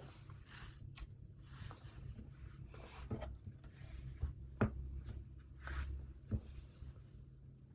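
Quiet desk work: soft rustles and a few light taps and knocks as things are handled on a desk, over a low steady room hum.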